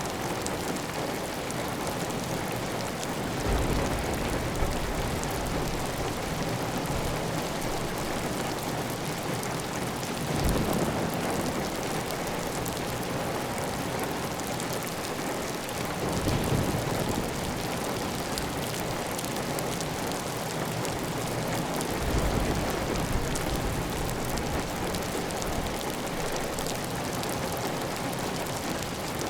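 Heavy rain falling on a clay tile roof, with water running steadily off the roof edge. A steady hiss with a few brief, deeper swells.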